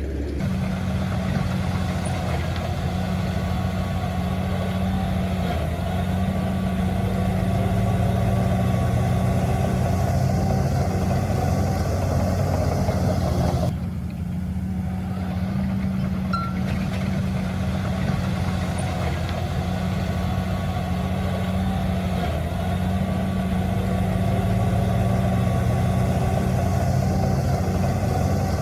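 Heavy diesel engine of earthmoving machinery running steadily with a low drone. About halfway through, the higher-pitched noise drops away suddenly for about three seconds, then returns.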